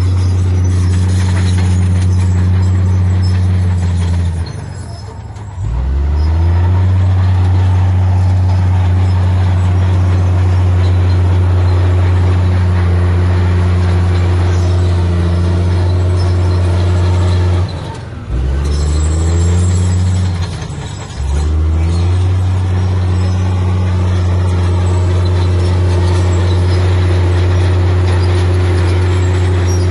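Komatsu D58P bulldozer's diesel engine running hard at steady high revs. Three times the engine note drops sharply and climbs straight back: about five seconds in, and twice close together around eighteen and twenty-one seconds.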